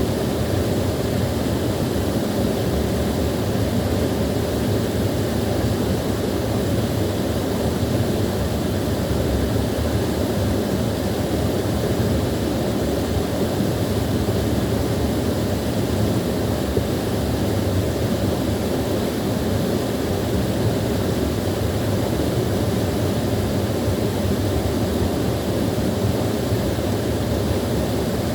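Small waterfall pouring steadily, a constant rushing of falling water, deepest and fullest in the low range.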